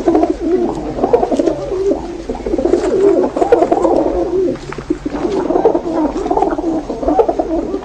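Pigeons cooing, several at once, their warbling coos overlapping without a break.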